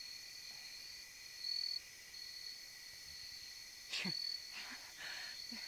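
Crickets trilling steadily at a high pitch, louder in stretches, with one short sharp sound about four seconds in.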